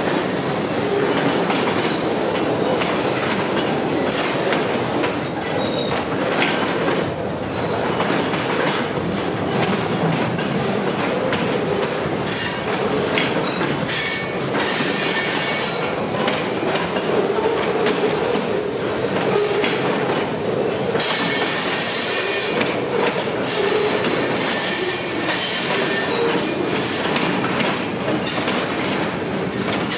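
Freight train cars rolling past, wheels squealing with a clickety-clack over the rail joints. A thin high squeal comes early on, and the squealing grows brighter twice, about halfway through and again later.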